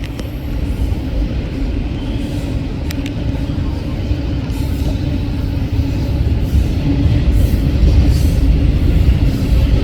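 Freight train passing with a steady low rumble and hum, growing louder from about six seconds in.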